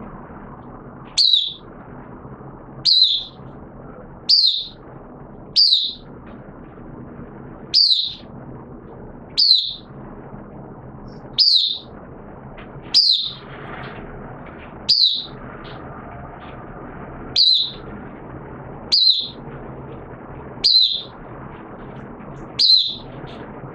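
A caged songbird giving a short sharp chirp about every one and a half to two seconds, thirteen in all, each note sliding quickly down in pitch. A steady low background hum runs underneath.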